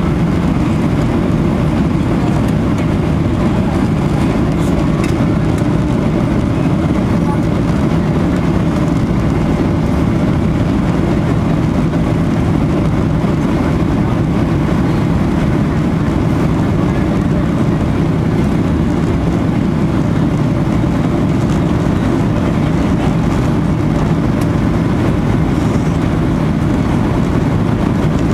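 Steady, unchanging drone of an aircraft in flight, a deep rushing noise with a faint low hum.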